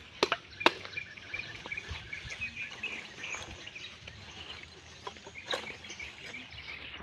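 Outdoor ambience with bird calls chirping in the background. Sharp knocks come twice in the first second and once more about five and a half seconds in.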